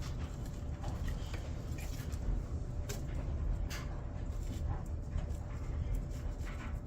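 Kindling and small sticks of wood catching in a wood stove, crackling with a few sharp pops over a steady low rumble.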